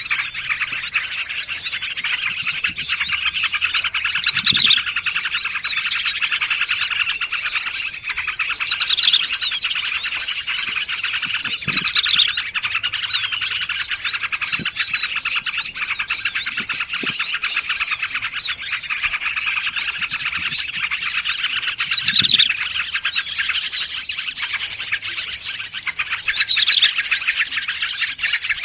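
A dense, continuous chorus of small songbirds chirping, trilling and calling over one another: a mixed bird-lure recording layering the calls of several species.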